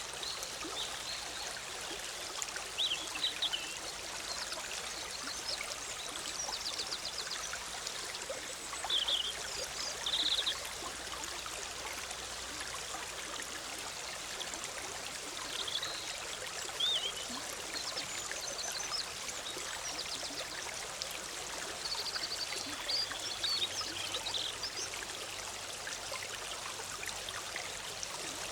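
Forest stream babbling and rushing steadily over rocks, with short high bird chirps breaking in every few seconds.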